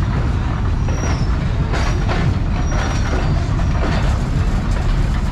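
Freight train of open-top wagons rolling slowly across a street crossing: a steady low rumble of steel wheels on the rails, broken by irregular clanks and clatter from the passing cars.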